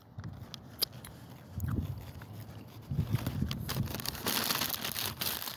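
Close-up mouth sounds of a person chewing and smacking on a soft, warm cookie, starting with finger licking. There is a rustling hiss near the end.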